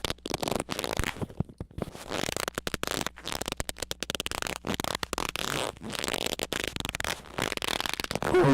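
Dense, irregular crackling and clicking noise, then near the end a very loud, distorted squeak that falls in pitch.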